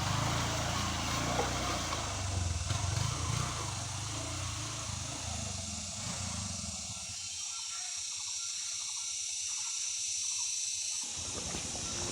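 Motorcycle engine and wind rumble while riding. The rumble fades out about halfway through, leaving a thin hiss, then comes back suddenly near the end.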